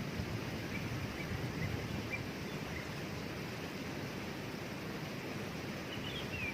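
Waterfall rushing steadily, with a few faint bird chirps over it and a short, clearer chirp near the end.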